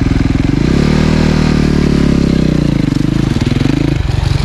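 Snow bike engine revved up under throttle about a second in, held high for a couple of seconds, then dropping back to a lower speed near the end.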